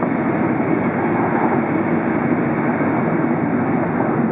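Steady rumbling and rushing of a Tohoku Shinkansen train running at speed, heard from inside the passenger cabin.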